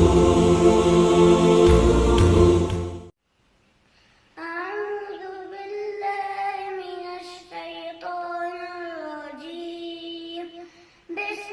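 A loud musical intro with a deep boom cuts off about three seconds in. After a second of silence, a single voice begins a melodic Quran recitation in tajweed style, with long held notes that slide in pitch and short breaks between phrases.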